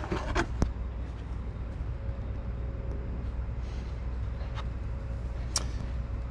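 Steady low hum in a workshop, with a few light clicks and taps of parts being handled.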